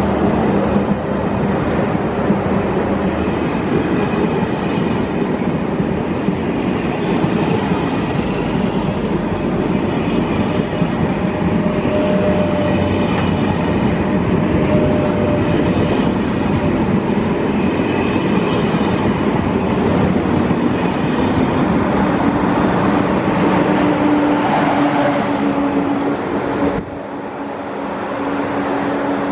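A train running past close by: a loud, steady rush of wheels on rail and running gear lasting nearly half a minute, which drops away suddenly near the end as the last car goes by.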